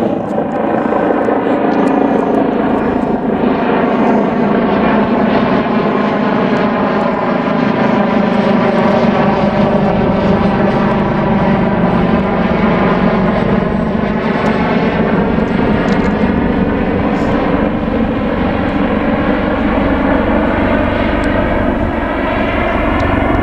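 Leonardo AW139 twin-engine helicopter coming in to land: steady loud rotor and turbine noise with a layered whine whose pitch slowly bends down and back up as it moves past.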